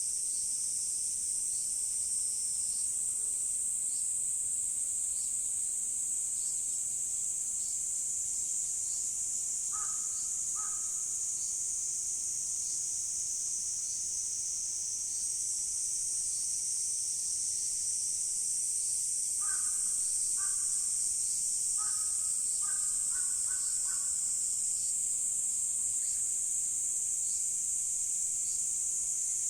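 A steady, high-pitched insect chorus throughout, with a crow cawing: a couple of caws about ten seconds in, then a run of caws about two-thirds of the way through.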